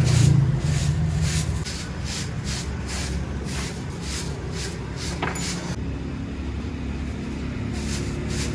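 A run of short, even strokes, about three a second, that stops about six seconds in, with a couple more near the end, over a steady low rumble.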